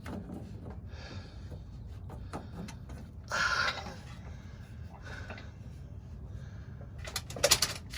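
Handling noises of hand work on the fuel filter parts: a short rustling scrape about three seconds in and a quick run of sharp clicks near the end, over a steady low hum.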